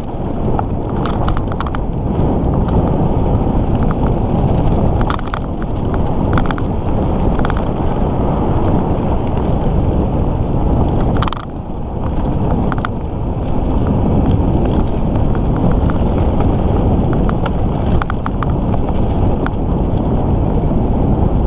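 Mountain bike riding on a dirt trail: steady rumble of tyres and wind buffeting the microphone, with frequent clicks and rattles from the bike as it goes over bumps. There is a short lull about halfway through.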